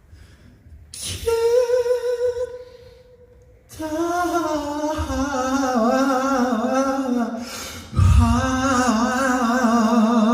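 A male singer's long-tone held notes amplified through a concert hall PA, with little or no accompaniment. There is a short high note about a second in, then two long sustained notes with wavering vibrato, each about four seconds, with a breath between them.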